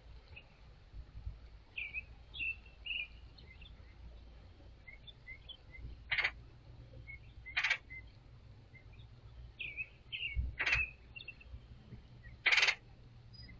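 Red-headed woodpecker giving four short, raspy calls a couple of seconds apart, the last the loudest, with softer high chirps in between.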